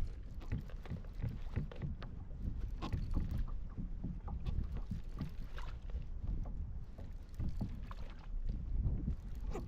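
Water lapping and splashing against a kayak hull in open sea, with a steady low rumble underneath and many small irregular splashes.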